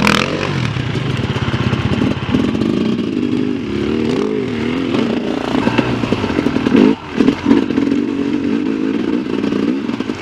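Enduro dirt bike engine running and revving at low speed, its pitch rising and falling, with a brief dip just before the seventh second.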